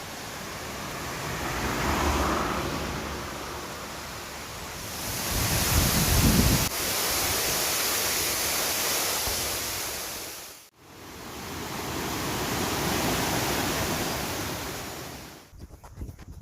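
Rushing water of a mountain stream, a steady noisy roar that swells and eases, cutting out briefly and coming back about two-thirds of the way through.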